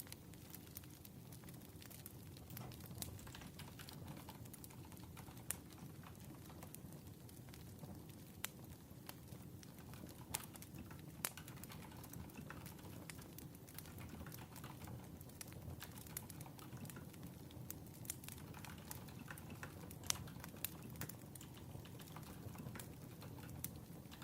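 Wood fire crackling: a steady low rumble of burning logs with irregular sharp pops and snaps, a few louder than the rest.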